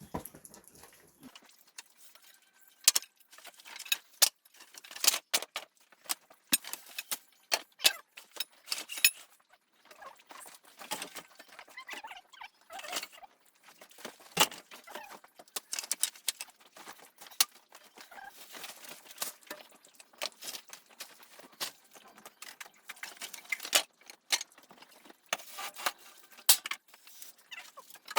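Irregular light clatter: a long run of sharp clicks and knocks, as of hard objects being handled or set down, coming in uneven clusters with short gaps between them.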